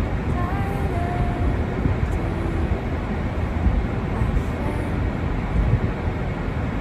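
Steady low rumbling outdoor noise with no distinct events, with a few faint, brief pitched sounds like distant voices above it.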